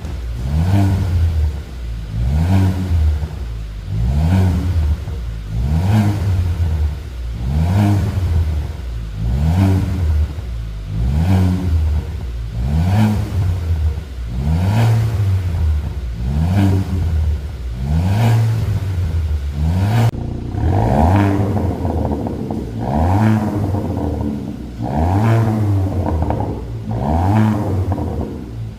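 Hyundai Tucson N Line engine revved through an aftermarket single variable-valve exhaust: repeated short throttle blips, about one every two seconds, each pitch rising and falling back to idle. About two-thirds of the way through, the exhaust note turns fuller and louder.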